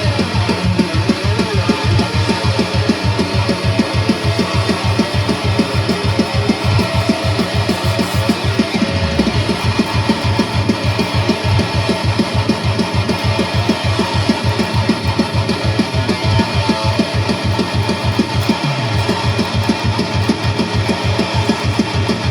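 Schecter Omen Elite 7-string electric guitar played hard with heavy distortion: fast, driving low-string riffing over a drum beat, with a low sliding note about nine seconds in and again near nineteen seconds.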